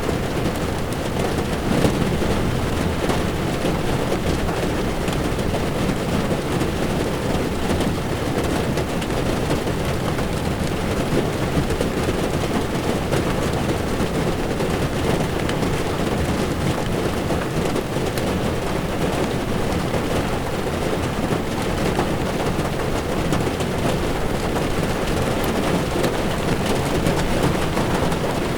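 Heavy rain falling on a car's windshield over the steady low rumble of tyres rolling on a wet road, an even hiss with no breaks.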